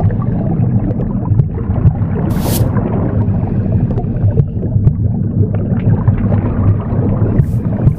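Womb-sound recording: a steady, loud, low whooshing rumble, mixed with the swish of a broom's bristles sweeping, one stroke about two and a half seconds in and another starting near the end.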